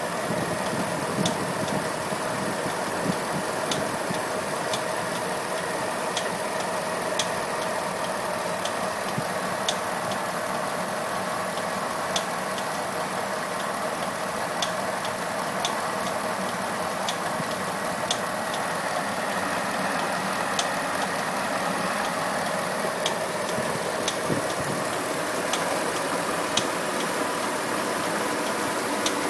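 Pontiac G8 engine idling with a sharp tick recurring about once or twice a second at uneven intervals. The ticking started after the harmonic balancer was swapped for an ATI Super Damper; the owner suspects one of the pulleys is now under added belt tension and failing.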